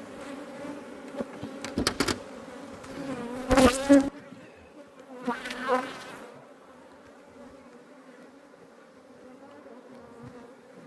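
Honeybees from an opened hive buzzing in a steady hum, with a few sharp knocks in the first four seconds.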